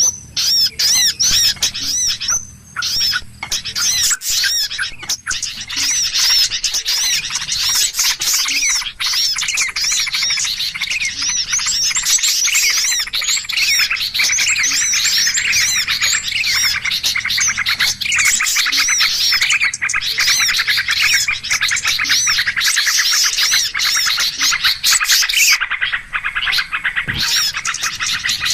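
Bird-lure (pikat) recording of a noisy flock of small birds: a dense, loud chorus of many quick chirps and calls overlapping without a break.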